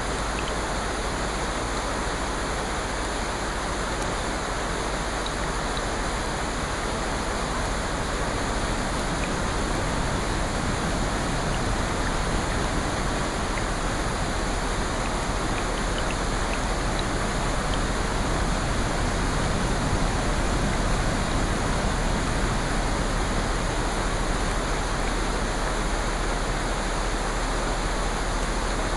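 Steady rushing water ambience, an even hiss with no distinct events, swelling slightly about two-thirds of the way through.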